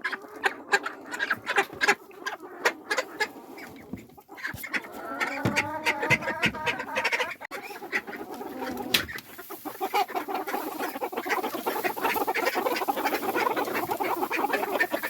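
Domestic ducks and chickens calling in a coop: quacks and clucks. A few short clicks and taps come first; the calls thicken into steady clucking in the last third.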